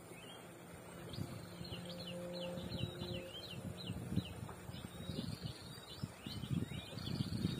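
Small birds chirping in quick, repeated high notes, over irregular low rumbles and thuds that grow louder from about a second in.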